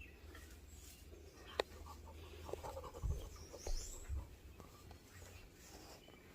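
Faint small bird chirps, with a sharp click about one and a half seconds in and a few softer taps and clicks.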